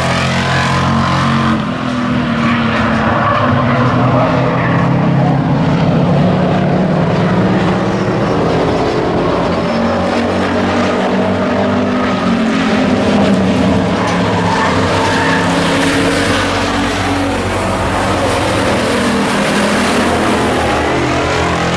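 Several stock pickup trucks racing on an oval track, engines running hard, their notes rising and falling as they accelerate, lift and pass.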